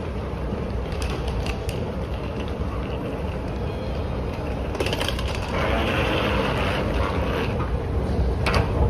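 Subway train running: a steady low rumble with a hissing swell in the middle and a few sharp clicks near the end.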